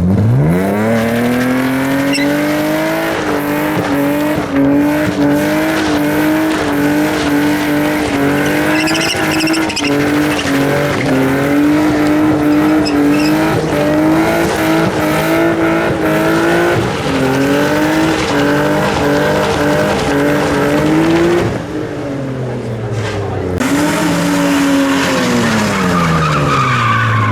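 A car engine is held at high revs while its tyres squeal and skid, as in a burnout or donuts. The revs dip briefly, climb again, then fall away near the end.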